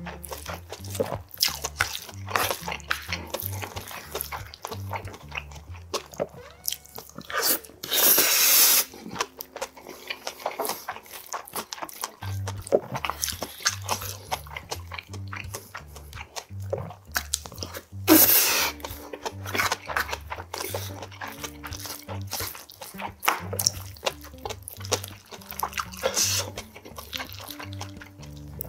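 Close-miked eating sounds: a man chewing and crunching mouthfuls of rice and grilled pork ribs, with wet mouth clicks throughout and a few louder rushing breaths about a second long. Background music with a steady low beat runs underneath, dropping out for a few seconds early on.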